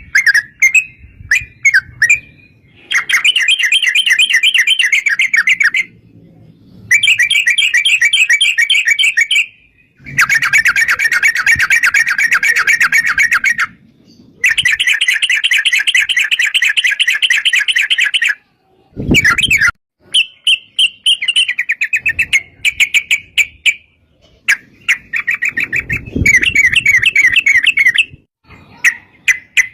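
Yellow-vented bulbul (trucukan) singing in long, fast chattering runs of repeated notes, each lasting several seconds with short pauses between. The later phrases are shorter and choppier.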